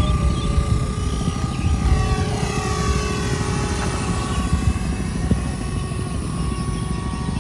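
Electric motor and propeller of a homemade foam RC cargo plane whining steadily in flight, with a dense low rumble underneath.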